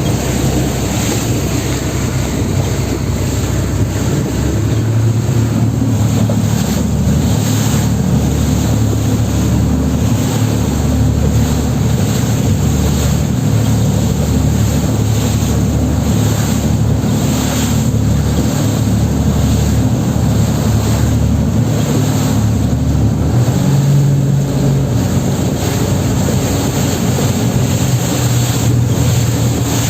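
A boat's engine drones steadily under water rushing past. Wind buffets the microphone in gusts throughout.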